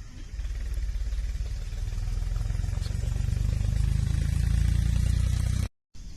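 A motor vehicle engine running with a low, steady rumble that slowly grows louder, then cuts off abruptly near the end.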